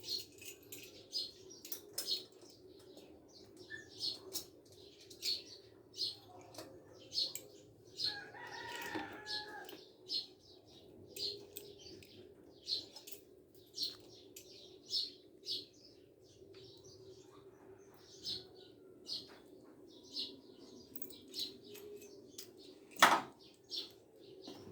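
A bird chirping over and over, about one short high chirp a second, over a faint steady hum. A longer call comes about eight seconds in, and a sharp knock near the end.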